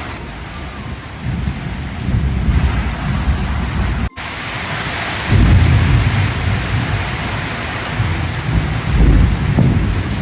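Heavy rain pouring down in a storm, a steady hiss with deep rumbles swelling up and dying away several times. The sound cuts out for an instant about four seconds in.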